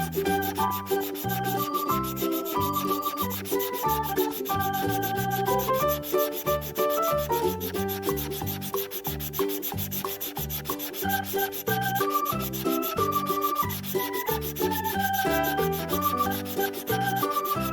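Steady scratchy rubbing of coloring strokes being scribbled onto paper, over a simple background tune whose notes change several times a second with a bass line.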